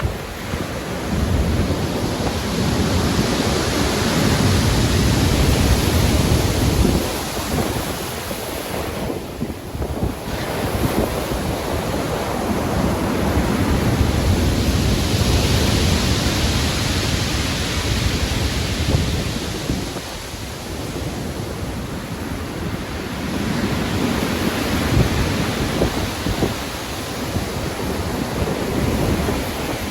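Stormy sea: heavy ocean waves breaking and washing in, building and easing in three long swells, with wind noise over them.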